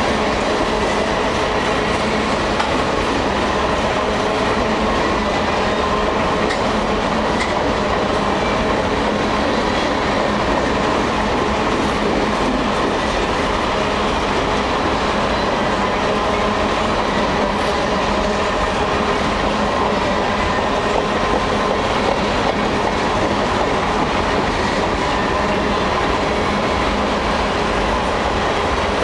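Freight train of boxcars rolling past close by: a steady, loud rumble and clatter of steel wheels on the rails, with a faint steady whine above it.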